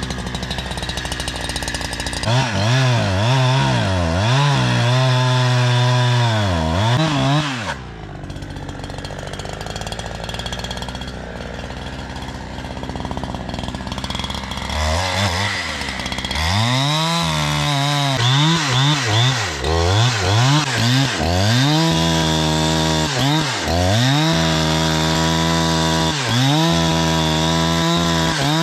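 Two-stroke chainsaw running, revved up and let back down again and again, with a lower, steadier stretch in the middle.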